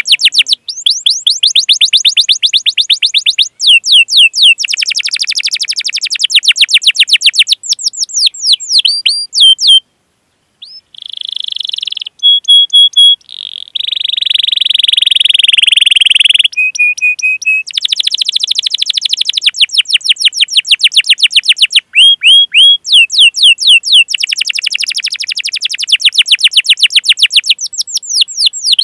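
Canary singing a long, loud song: fast rolling trills of rapidly repeated sweeping chirps, broken by short held whistles and a harsher, steadier buzzy note around the middle, with a brief pause about ten seconds in.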